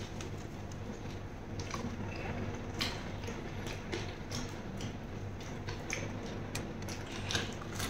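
A person chewing a mouthful of raw beef salad close to the microphone, with wet mouth clicks and smacks at irregular moments, over a low steady hum.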